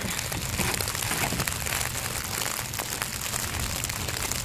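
Steady rain falling on the boat and the water, a continuous hiss full of small drop ticks.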